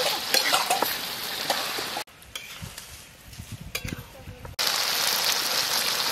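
Meat and potatoes frying in oil in a steel karahi, sizzling, with a spatula clicking and scraping against the pan as the curry is stirred at the browning (kosha) stage. The sizzle drops away for about two seconds in the middle and then comes back.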